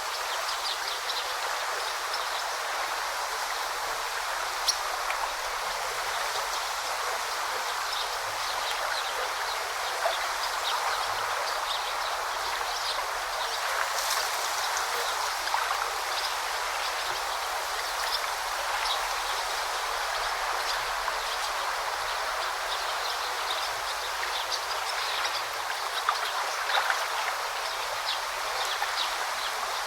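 Steady rushing and babbling of a forest river, with many brief, high bird chirps scattered over the water throughout.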